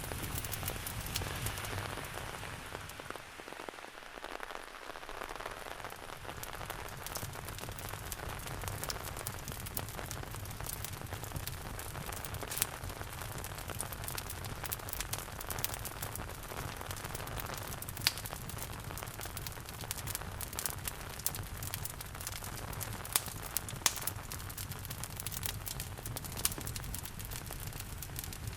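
Steady rain mixed with a crackling wood fire in a fireplace, with irregular sharp pops scattered throughout.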